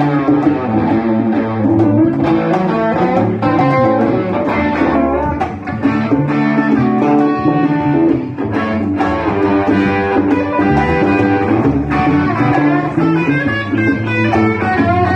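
Live blues-rock band playing an instrumental break: electric guitar lines over rhythm guitar and bass guitar.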